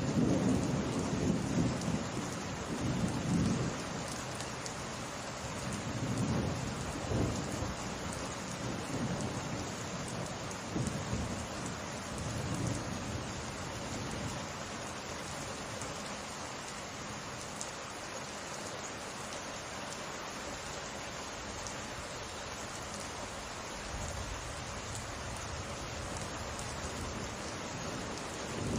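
Steady rain falling, an even hiss throughout, with rolling thunder rumbling in several low swells during the first dozen seconds that die away, leaving just the rain.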